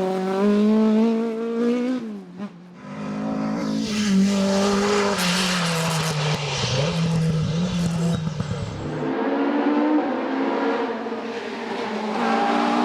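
Racing car engine at high revs accelerating hard, pitch climbing through the gears. About two seconds in the sound briefly drops away, then high-revving engine noise picks up again, changing abruptly near the end.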